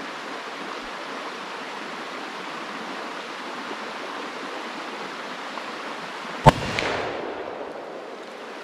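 A single .44 Magnum shot about six and a half seconds in, echoing off for about a second, over the steady rush of a stream.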